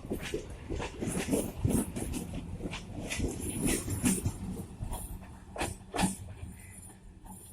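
MEMU electric multiple-unit train running out of the station, its wheels clattering over rail joints and points in a string of irregular knocks over a low rumble, fading away near the end.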